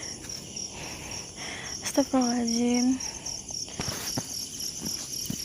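Night insects, crickets, chirring in a steady high pulsing trill, with a few short sharp clicks about four seconds in.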